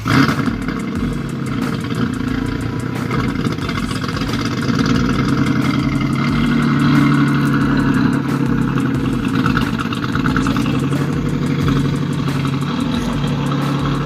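Dodge Magnum SXT's 3.5-litre V6 starting from cold through a Challenger dual exhaust with the mid muffler deleted and the resonators still on. It catches abruptly, then runs at a steady, raised cold idle with a low, aggressive exhaust note that eases slightly near the end.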